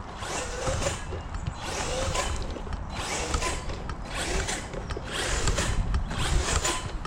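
Hyper MT Sport Plus 2 RC monster truck's motor and drivetrain whirring in repeated short throttle bursts, about one a second, with a rising and falling whine in each, as its wheels spin.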